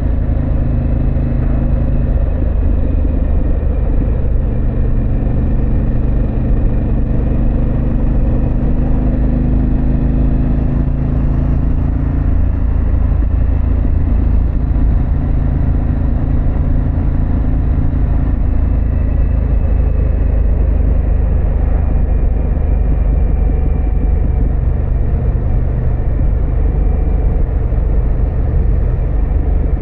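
2024 Harley-Davidson Pan America's Revolution Max V-twin with a Vance & Hines exhaust running steadily while cruising, over a constant deep rumble. The engine note shifts about twelve seconds in, then holds steady again.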